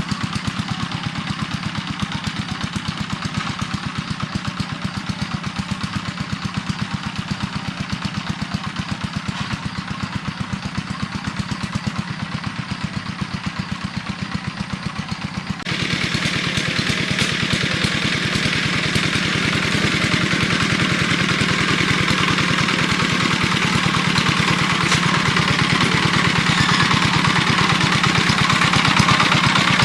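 A small engine running steadily with an even, rapid firing beat. About halfway through it suddenly becomes louder and brighter.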